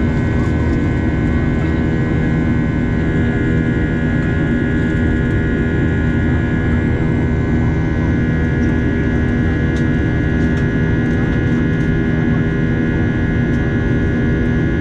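Steady drone of an airliner's engines and airflow heard inside the passenger cabin in flight, a constant hum with a thin whine over it.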